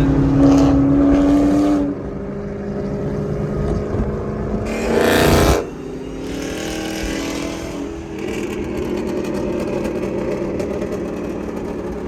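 Car engine running hard, with a loud steady high tone for the first two seconds, a loud rushing burst about five seconds in, and the engine pitch rising again near the end as it accelerates.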